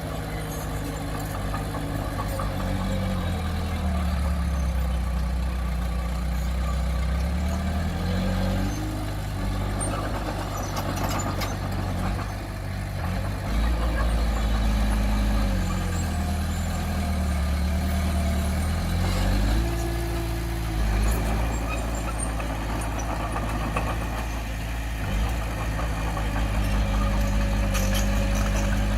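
Komatsu D20P bulldozer's diesel engine running under load. Its speed drops and recovers several times, with a few faint clanks.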